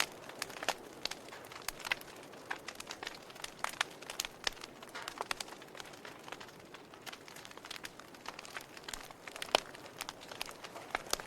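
Wood fire burning in a fireplace, with irregular crackles and pops over a soft steady hiss; one louder pop about nine and a half seconds in.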